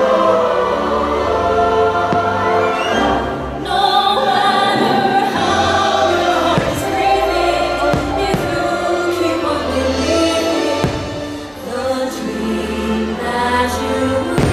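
Fireworks show soundtrack: a choir singing over orchestral music, with a few short thuds underneath.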